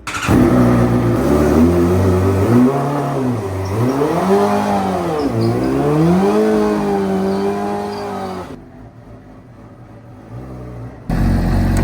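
Suzuki GSX-R 750 sportbike's inline-four engine revving, the pitch rising and falling several times, then dropping away about eight and a half seconds in. A steady, lower engine sound starts up near the end.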